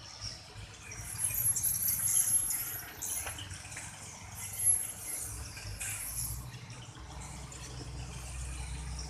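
High-pitched chirping and twittering of edible-nest swiftlets, loudest in bursts from about a second in and again around the middle.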